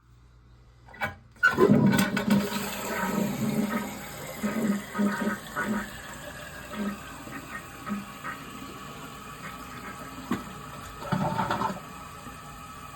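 Toilet with a newly replaced fill valve and flapper being flushed: a click of the handle about a second in, then a sudden rush of water that gurgles down the bowl and tapers off, with a short surge again near the end.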